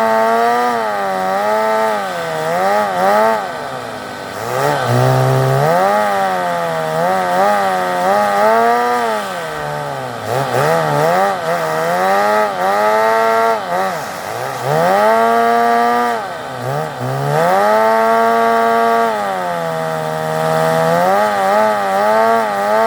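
Fox-body car's engine with a tuned exhaust being revved over and over: held at a steady high pitch for a few seconds, then dropping and climbing back up. The exhaust has a raspy, buzzing note.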